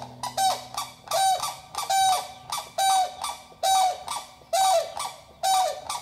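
A large bird honking over and over, about one call a second, each call a short pitched note that drops away at its end.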